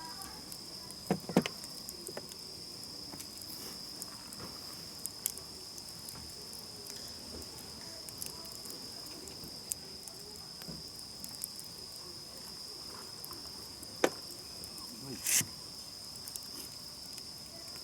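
Crickets singing in a steady high trill, with a few sharp pops from the crackling campfire: a pair about a second in and two more in the last few seconds.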